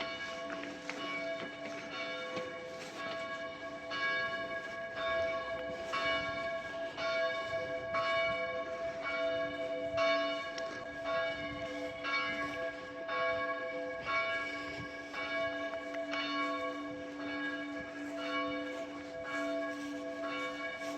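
Church bells being rung by ringers in the tower: a steady run of strokes, about two a second, each note hanging on and overlapping the next.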